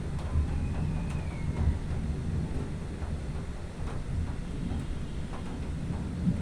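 Low, continuous rumble of distant thunder rolling on. A faint, short falling chirp sounds about half a second in.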